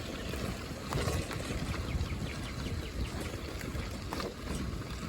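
Bicycles rolling along a crushed-rock trail: a steady crunch and rattle of tyres on the surface with scattered clicks, and wind rumbling on the microphone.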